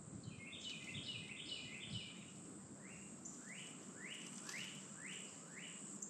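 A songbird singing: a quick run of descending whistled notes, then a series of repeated rising notes about two a second. A steady high insect drone and a low rumble run underneath.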